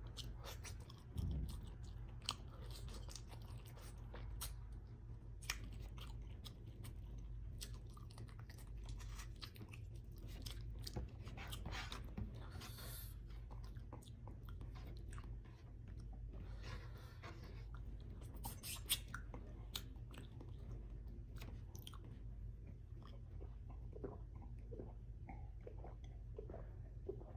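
Close-miked mouth sounds of someone eating paksiw salmon head (salmon head braised in vinegar), picked off by hand: soft chewing with many small wet smacks and clicks scattered throughout, over a steady low hum.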